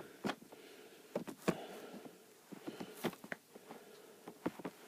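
Scattered light clicks and taps, about half a dozen, from things being handled by hand.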